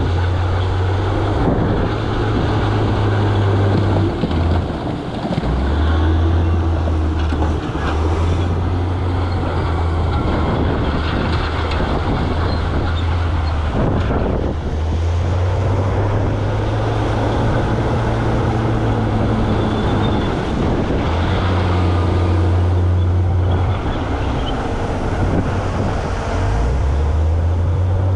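Heavy diesel earthmoving machinery at work. A big engine runs under changing load, its deep note dropping and rising every few seconds over a dense, steady noise.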